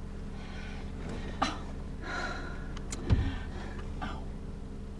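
Steady low hum of a car engine idling, heard from inside the car, with a couple of soft breaths and a single bump about three seconds in.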